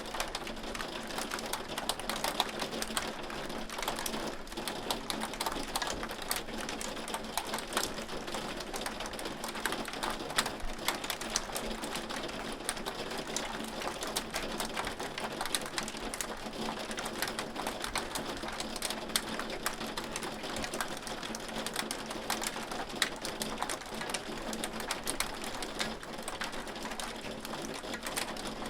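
Hail falling steadily: many small hard stones ticking densely on a surface, with sharper single strikes standing out here and there.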